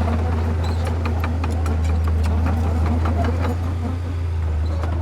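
Heavy diesel construction machine running steadily with a deep hum, with many sharp metallic clanks and knocks scattered through it.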